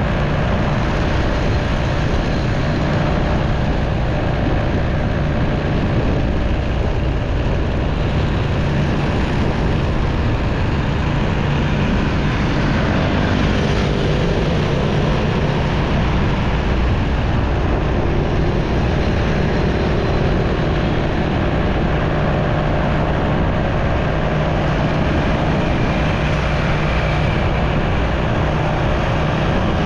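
Motorcycle engine running steadily while riding, mixed with road and wind noise; the level stays even with no sudden events.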